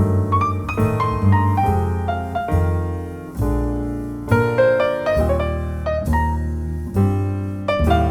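Jazz piano playing a ballad: struck chords with low notes in the left hand under a melody line, each note ringing and fading before the next.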